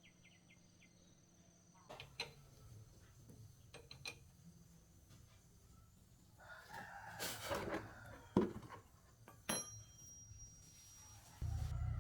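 A rooster crows once, about six and a half seconds in, amid a few sharp clicks and knocks. A low, steady motor hum cuts in near the end.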